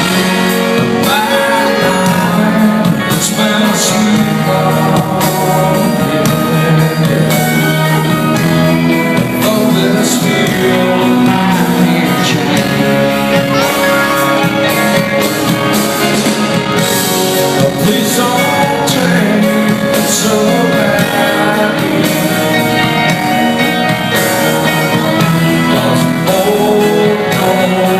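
Rock band playing: electric guitars with bending lead lines over a steady drum beat.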